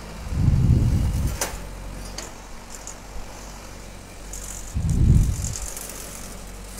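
Two loud gusts of wind buffeting the microphone, one about half a second in and one about five seconds in, over a steady low hum.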